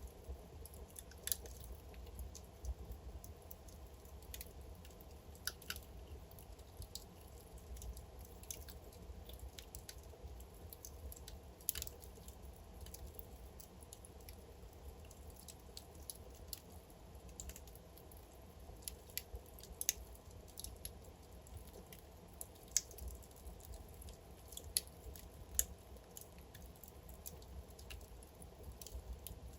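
Wood fire crackling in a fireplace: sharp irregular pops and snaps from the burning logs over a low, steady rumble of the flames.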